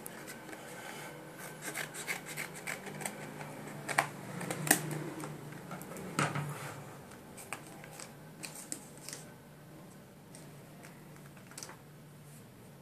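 Irregular clicks, taps and scraping of small objects being handled, loudest in the middle, over a faint steady hum.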